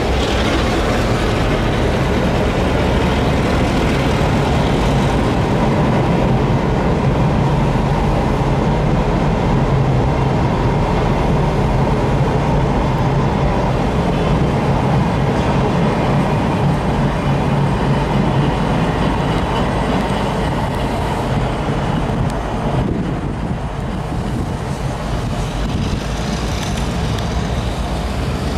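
Freight train boxcars rolling slowly past, their wheels rumbling on the rails over a steady low hum. The sound eases a little near the end as the train pulls away.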